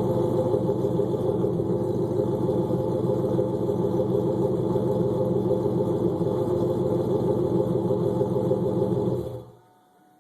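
Chevrolet LQ9 6.0-litre V8 with an LS6 camshaft idling steadily through long-tube headers and a Magnaflow cat-back exhaust, then stopping suddenly about nine seconds in.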